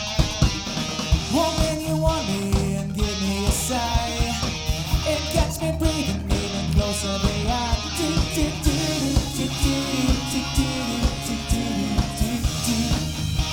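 Live rock band playing an instrumental passage: an electric guitar lead line over bass and drums keeping a steady beat.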